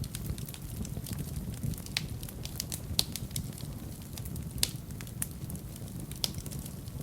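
Wood fire burning in a fireplace: a steady low rumble of the flames with irregular sharp crackles and pops, a few louder snaps about 3, 4.5 and 6 seconds in.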